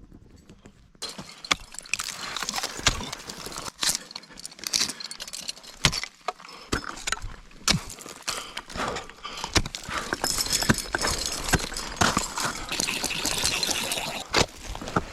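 Ice axe picks and crampon points striking frozen waterfall ice in irregular sharp blows, starting about a second in, and coming thicker in the second half.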